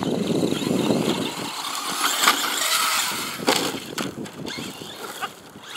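Traxxas Slash 4x4 electric RC short-course truck running on dirt: motor whine and tyre noise, broken by a few sharp knocks. Wind buffets the microphone for the first second or so.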